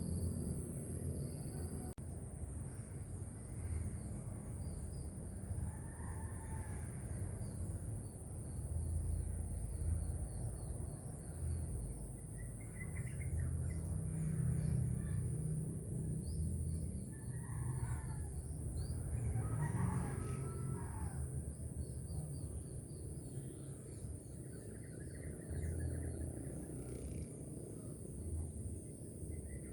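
Morning bird ambience: small birds chirping over and over, with roosters crowing now and then, the loudest calls coming about eighteen and twenty seconds in. Under them run a steady high hiss and a constant low rumble.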